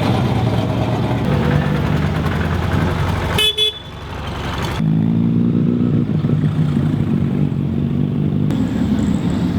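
Car engines running, with a short double toot of a car horn about three and a half seconds in. A car's engine then runs loud and steady with a strong even note.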